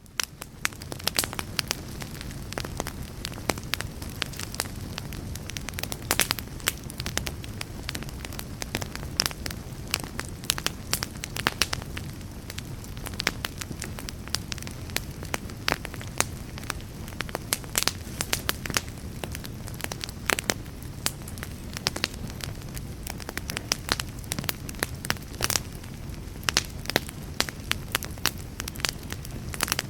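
Fireplace fire crackling, with irregular sharp pops and snaps over a steady low rush of flames, fading in over the first second.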